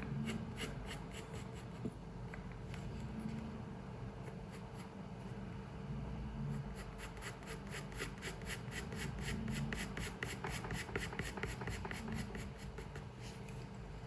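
Drawing strokes scratching on paper: a few strokes at first, then from about halfway in a fast, even back-and-forth run at about six strokes a second, as in shading. A steady low room hum runs underneath.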